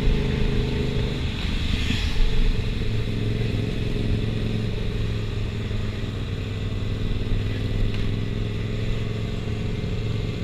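Motorcycle engines running in traffic. The engine note shifts about a second in, then settles into a steady low drone.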